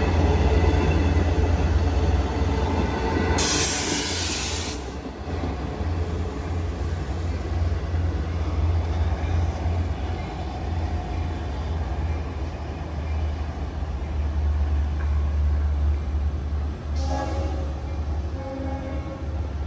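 Long Island Rail Road train at the station platform: a steady low rumble, with a loud burst of hiss lasting about a second and a half, starting about three and a half seconds in. A pitched tone comes in near the end.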